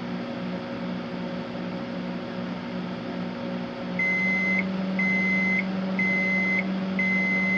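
Microwave oven running with a steady hum. About halfway through, it gives four high beeps about a second apart, signalling the end of the cooking cycle.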